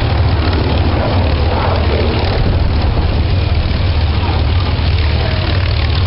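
Aircraft engine noise at an air show: a loud, steady rumble with a constant level throughout.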